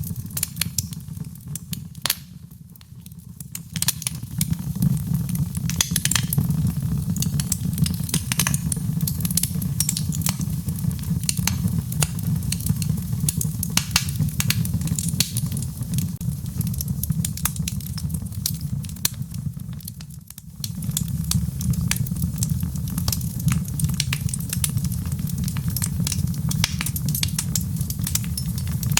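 Wood fire in a fireplace crackling, with dense sharp pops and snaps over a steady low rumble of the flames. The rumble dips briefly about two seconds in and again about twenty seconds in.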